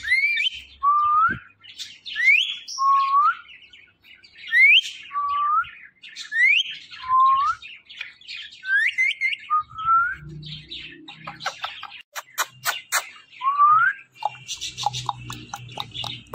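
Pet ringneck parrot making a string of short rising chirps, roughly one a second, then a burst of sharp clicks about twelve seconds in and a few more chirps near the end.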